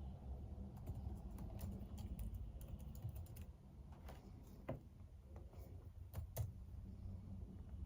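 Typing on a computer keyboard: irregular keystrokes, quick and busy for the first few seconds, then sparser with a few sharper clicks. A low steady hum runs underneath.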